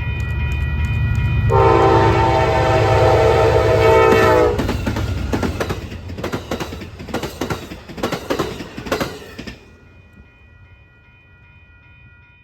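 Amtrak P42DC diesel locomotive passing at speed: one long horn blast of about three seconds over the engine rumble. After the blast comes a quick run of wheel clicks as the cars go by, which dies away near the end.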